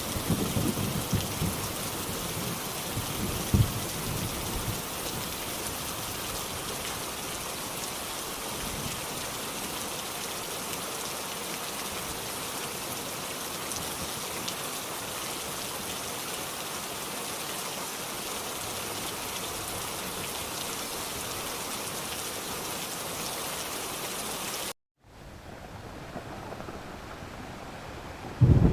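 Steady heavy rain falling, with a low rumble of thunder in the first few seconds. About 25 seconds in the sound cuts out for a moment and comes back as softer rain.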